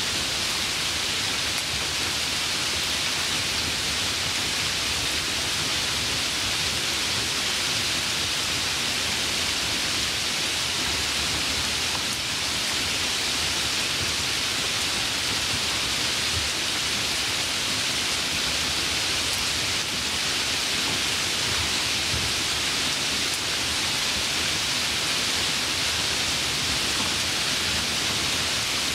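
Steady rain falling: an even, high-pitched hiss with no single drops or thunder standing out.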